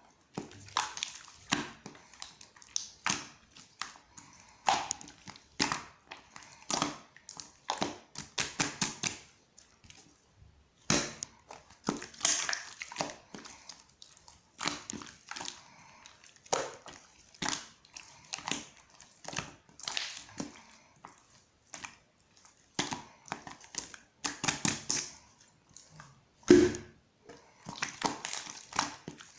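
Gold pearl slime being squished and pressed by hand, with irregular clicky pops and crackles from air caught in the slime, sometimes in quick runs.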